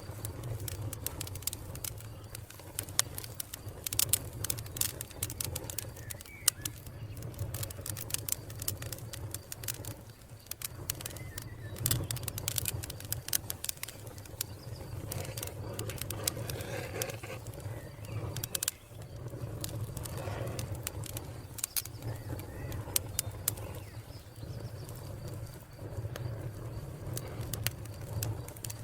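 Wood fire crackling with dense, irregular sharp pops over a steady low rumble, with birds calling in the background.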